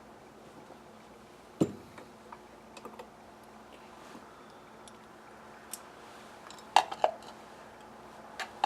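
Scattered clicks and knocks of metal tools and small carburetor parts being handled during disassembly. There is a sharp knock about a second and a half in, a few light ticks, and a pair of clicks near the end.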